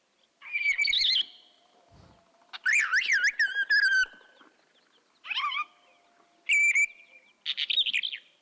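Isabelline wheatear singing in flight: five short bursts of varied, fast warbling and whistled notes with gaps between them. The song is full of mimicry of other birds, including common redshank and pied wheatear.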